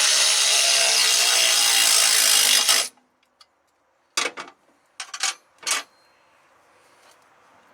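Loud, steady rushing hiss of compressed air in a truck shop, lasting about three seconds before cutting off sharply. It is followed by several short, sharp bursts over the next two seconds.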